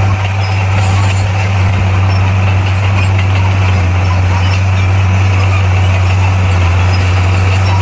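Heavy diesel engine of a bulldozer running steadily at an even pitch, a constant low hum with no revving or breaks.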